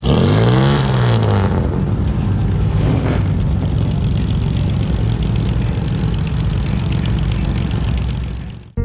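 Car engine revved, its pitch swinging up and down over the first second or so, then running with a steady low rumble. It cuts off suddenly just before the end.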